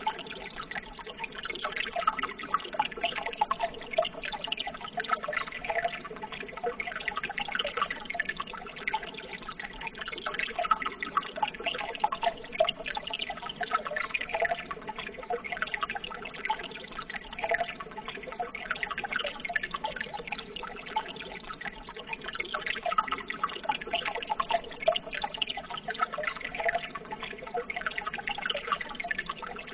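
Running water trickling and babbling steadily, with many small splashes and drips and no pause.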